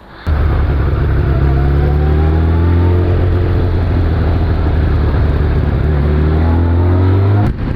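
Suzuki Bandit 600S's inline-four engine pulling under load as the bike rides. It comes in suddenly just after the start and holds loud and steady, its pitch rising and falling slightly, then drops sharply near the end.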